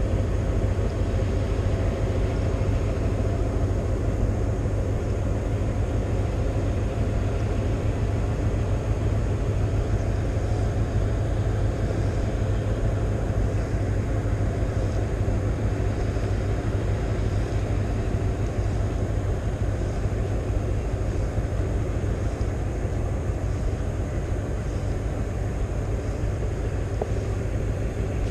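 Steady low drone of a passing river oil tanker's diesel engines, working hard under what the angler takes to be a full load.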